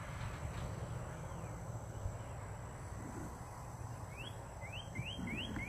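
A bird calling a quick series of short, rising notes, starting about four seconds in, over a steady low outdoor rumble.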